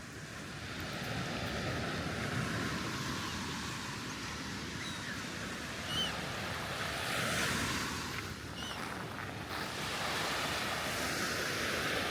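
Sea waves breaking and washing up the beach: a steady surf hiss that swells about seven seconds in and again near the end, with wind on the microphone.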